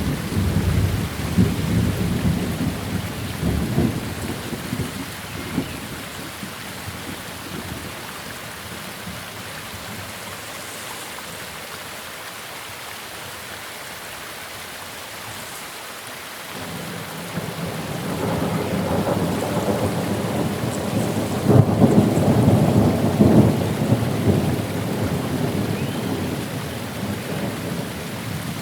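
Thunderstorm: steady rain with two rolls of thunder. One rumble fades away over the first few seconds. Another builds a little past halfway, rumbles loudest about three-quarters of the way through, then dies down.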